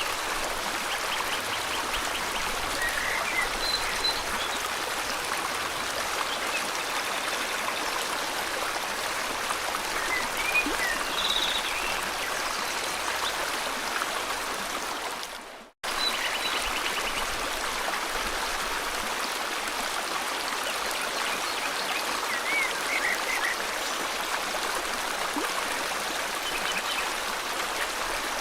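River water flowing steadily, with small birds chirping and trilling now and then. A little past halfway the sound fades out for a moment, then cuts back in suddenly.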